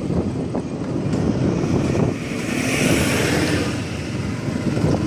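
Motorcycle riding on the road: engine and tyre rumble under wind rushing over the microphone, the wind rush swelling for a moment about three seconds in.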